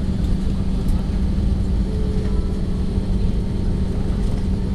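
Steady cabin noise inside an Airbus A318-121 airliner, heard from a window seat: a low rumble of engines and airflow with a steady hum, and a faint higher tone joining about two seconds in.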